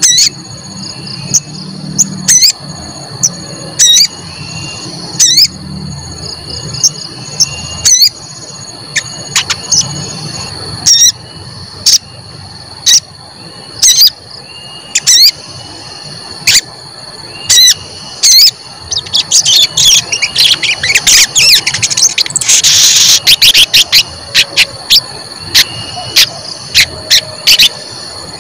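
Sogon bird calling a sharp, high 'cuit' note over and over, roughly once every second or so, breaking into a rapid flurry of calls about two-thirds of the way through. A steady high-pitched insect-like drone runs underneath.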